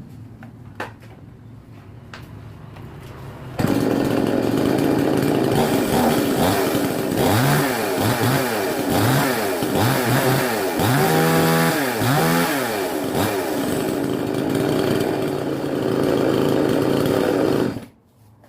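Two-stroke petrol chainsaw engine running after a few faint clicks. It comes in suddenly and is revved up and down repeatedly in the middle, then cuts off abruptly near the end.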